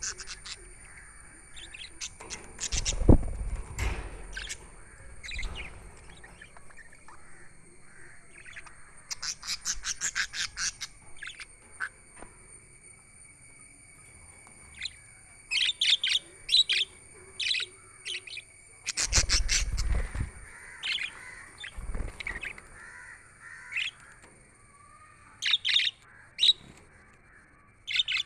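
Budgerigars chirping in short, quick bursts of high calls, some in rapid trains, with a few dull thumps among them, the loudest about three seconds in.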